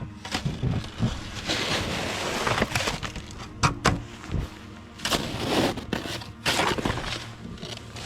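Packed snow crunching in a series of irregular noisy strokes, with a few sharp cracks in the middle.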